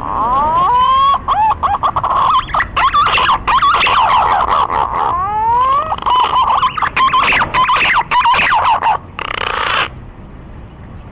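Green pigeon (punai) lure call: several overlapping whistled calls with rising and wavering notes, stopping about nine seconds in, followed by a short hissing burst.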